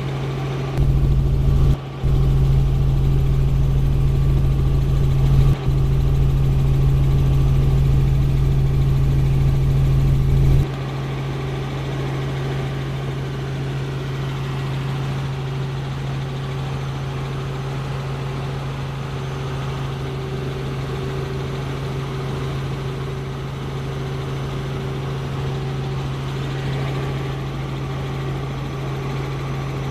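Helicopter in flight: a steady, loud drone with a strong low hum. For the first ten seconds or so a heavier low rumble is added on top, briefly dropping out twice, then it cuts off suddenly, leaving the steady drone.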